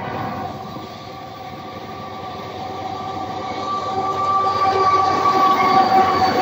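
Freight train hauled by CSX diesel locomotives approaching and passing close by. It is a heavy rumble with steady high-pitched squealing tones on top, and it grows steadily louder as the locomotives come past.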